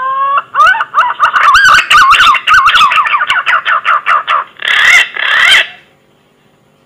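Green pigeon (punai) whistled call: a rising note, then a quick run of wavering, warbling whistles for about four seconds, ending in two longer, raspier notes, as used as a lure call.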